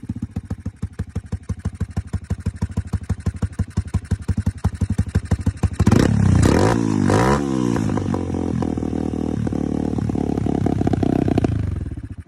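150cc Chinese dirt bike engine with a freshly fitted Nibbi racing carburetor idling with an even pulsing beat, revved twice about halfway through, then running at a faster, steady idle before cutting off at the very end. It is running on its first start with the new carb, the air screw untouched and only the idle screw adjusted.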